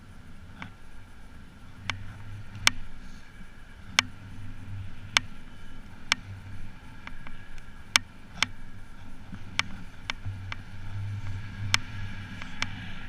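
Wind buffeting the microphone in gusts, with sharp clicks about once a second over it.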